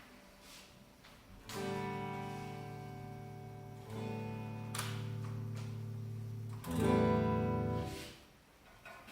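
Acoustic guitar chords played one at a time, three strikes a couple of seconds apart, each left to ring. The third is the loudest and is damped about a second later.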